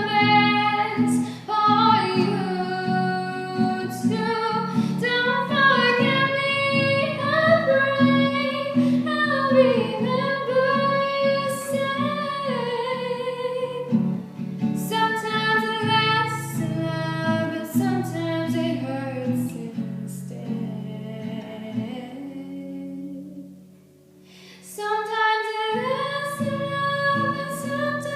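Female voice singing a ballad over acoustic guitar. About 22 seconds in the voice pauses, leaving a low guitar note that fades almost away before the singing picks up again.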